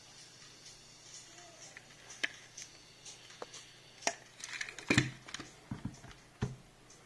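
Irregular small clicks and knocks of small objects and tools being handled on a work surface, thickest and loudest about five seconds in.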